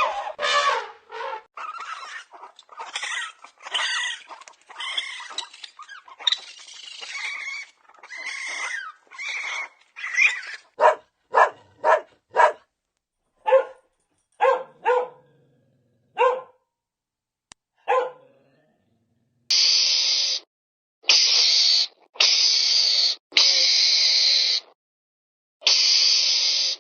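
A dog whimpering, yipping and barking, with busy calls at first and then short single yips spaced about a second apart. Near the end come five noisy, high-pitched bursts of about a second each.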